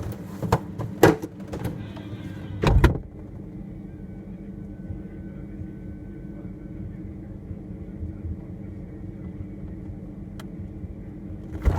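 Bottles and containers knock and rattle on the fridge shelves as the butter is taken out, then the fridge door thuds shut about three seconds in. After that a steady low fridge hum, heard from inside the closed fridge, runs until the door is opened again near the end.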